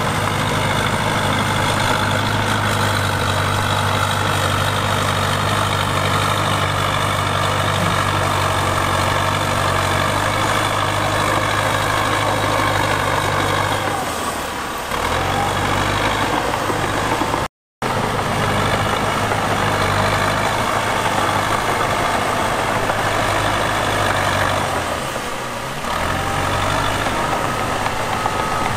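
Heavy diesel earthmoving machine engine running steadily. It eases briefly about halfway and again near the end, and cuts out for a split second between them.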